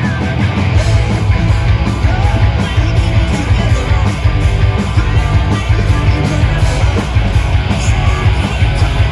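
Loud rock music with electric guitar and a steady driving beat.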